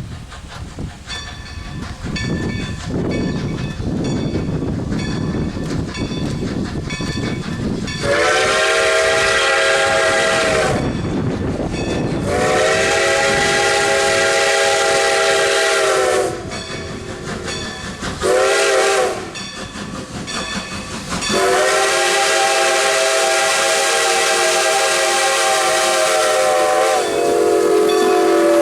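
Steam whistle of 2-10-0 steam locomotive No. 90, a chord of several notes, sounding long, long, short, long: the standard grade-crossing signal. The locomotive and train run underneath with a steady rumble and light clicking, heard alone for the first several seconds, and the final long blast sags in pitch near its end.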